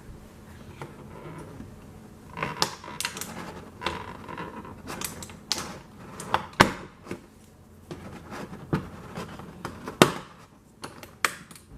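Small plastic toy pieces being handled and set down on a hard surface: a string of light clicks and clacks, with two louder knocks about six and a half and ten seconds in.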